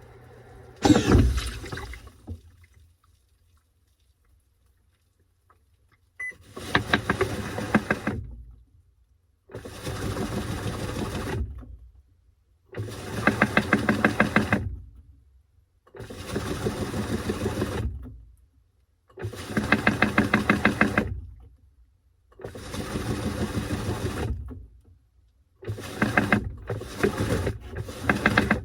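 Washing machine agitating its load in a wash or rinse cycle. The motor turns the load in bursts of about two seconds with short pauses between, and water sloshes with a rapid patter. Near the end the bursts become short and quick, and a loud sudden sound comes about a second in.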